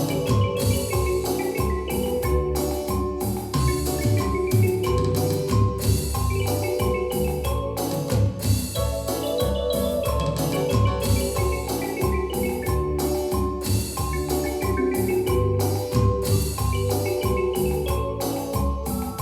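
Yamaha DX7 FM synthesizer playing a busy pattern of short, percussive pitched notes over a steady beat.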